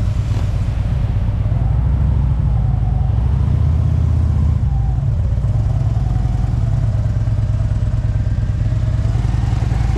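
Harley-Davidson motorcycle's V-twin engine running steadily under way, its low note dipping and rising slightly about halfway through.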